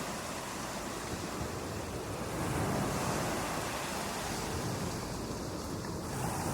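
Ocean surf washing onto a beach: a continuous rushing wash that swells gently a few seconds in and again near the end.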